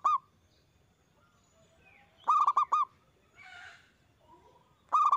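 Zebra dove (perkutut) cooing in quick repeated phrases of four or five clipped notes. One phrase trails off at the start, a full phrase comes a little past two seconds in, and another starts near the end.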